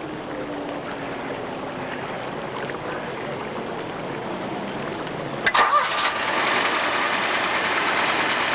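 A car engine: a sharp clatter about five and a half seconds in, after which the engine noise runs louder and steady.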